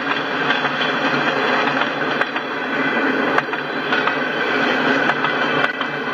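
Freight train cars rolling past at speed: a steady rushing rumble of steel wheels on rail, with a few sharp clicks scattered through it.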